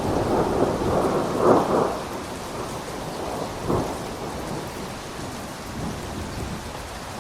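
Steady heavy rain with thunder: a loud rolling rumble in the first two seconds, a sharper clap near the middle, then weaker rumbles dying away.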